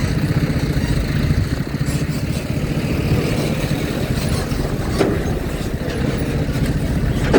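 Heavy diesel engines running steadily, a dense low rumble with a fast even throb, as trucks drive onto a ferry. There is a light knock about five seconds in.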